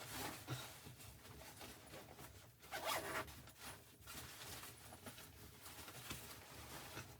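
Faint rustling and scraping of handled gear or clothing, a series of short noisy strokes with the loudest about three seconds in.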